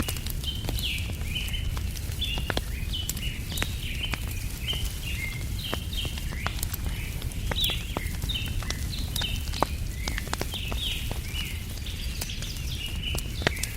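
Wood campfire crackling with frequent sharp pops, over a steady low rumble, while small birds chirp continuously with quick, short calls.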